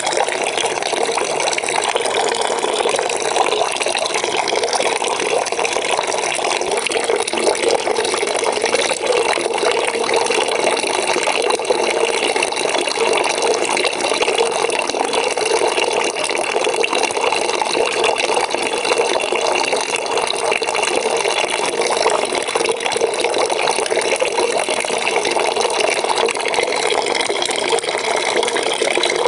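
Water running steadily from a tap into a bucket, an even splashing rush with a bright band in the lower middle.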